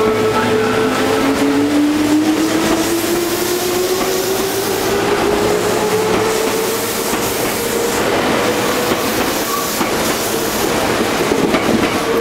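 Meitetsu 7000 series Panorama Car electric train pulling away, its traction motors whining in a tone that rises steadily as it speeds up, over the running noise of its wheels on the rails.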